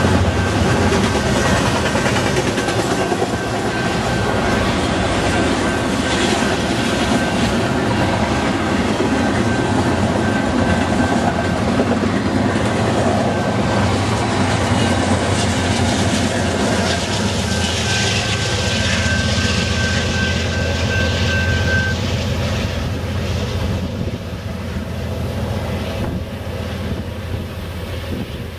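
Double-stack container freight train rolling past: a steady rumble and clatter of steel wheels on the rails, with a thin high whine running through it until about twenty seconds in. The sound fades slowly near the end as the last cars draw away.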